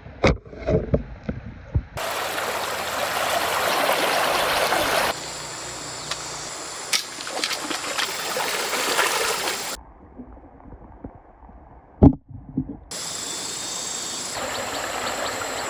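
Stream water flowing and splashing, heard in several short segments that change abruptly. A few sharp knocks come in the first couple of seconds, and one loud thump about twelve seconds in.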